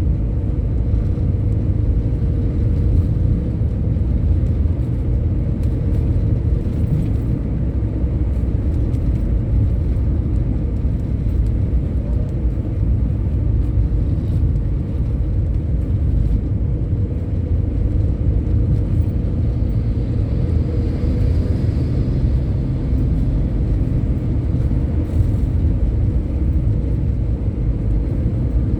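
Steady low rumble of a road vehicle travelling at speed: engine and tyre noise with no change in pace.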